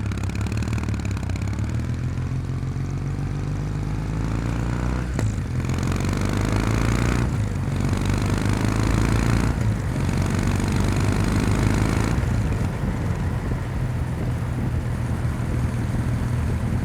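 Kawasaki W800's air-cooled parallel-twin engine and exhaust pulling away from a stop, lugged hard at wide-open throttle from low revs and short-shifted up through the gears. Three upshifts come at about five, seven and a half, and nine and a half seconds in, each followed by the pitch climbing again.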